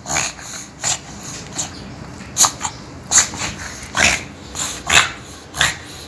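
Pug puppy making short, noisy snuffles through its nose, about six of them spaced roughly a second apart.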